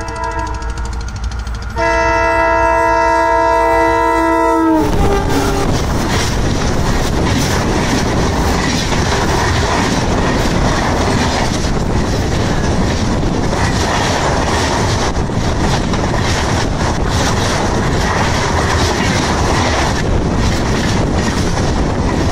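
WDP-4D diesel-electric locomotive's multi-tone air horn: one blast ends just as the sound begins, and a second, louder blast starts about two seconds in and lasts about three seconds, its pitch dropping as the locomotive passes close by. Then comes the loud, continuous rush of the passenger coaches passing, with the clickety-clack of their wheels on the rails.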